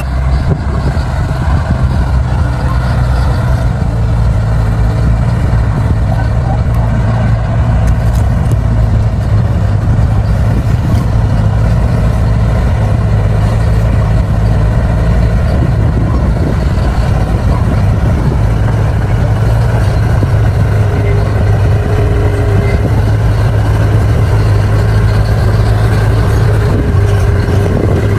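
Bulldozer's diesel engine running steadily with a deep, even drone while the machine pushes soil.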